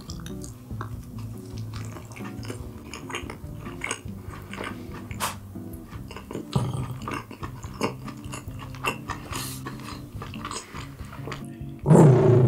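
Close-miked chewing and mouth sounds of someone eating, a rapid scatter of small wet clicks and smacks, over quiet background music. A brief louder burst near the end.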